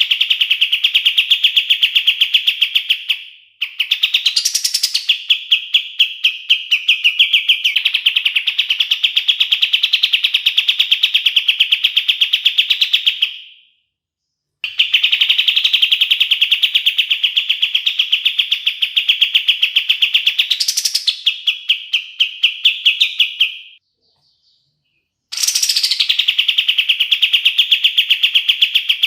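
Kapas tembak songbird singing its rapid 'tembak' (shooting) trill. It gives four long, fast, even trills of several seconds each, separated by short pauses. Each trill starts with a quick upward sweep, and a short rising whistle cuts through the trill twice.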